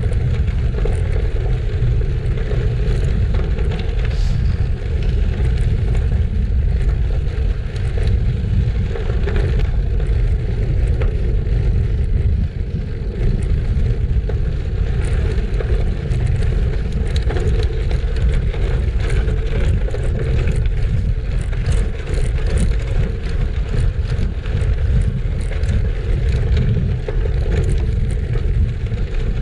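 Bicycle riding on gravel: a steady rumble of wind over the microphone and tyres rolling on loose ground, with scattered small clicks and rattles from stones and the bike.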